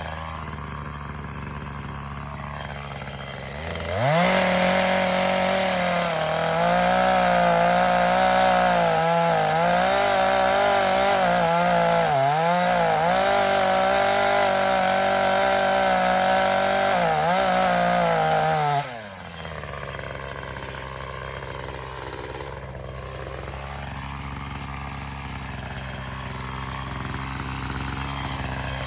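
Gas chainsaw idling, then revved up about four seconds in and held at full throttle while cutting dead pine wood, its pitch dipping now and then under load. After about fifteen seconds it drops back to a steady idle.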